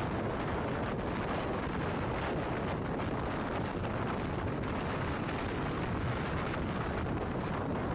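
Strong wind buffeting the microphone: a steady, loud rushing noise without distinct events.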